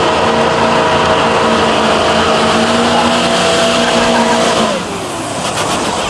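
Car doing a burnout: the engine is held at steady high revs while the tyres screech, then it lets off and the sound drops away about five seconds in.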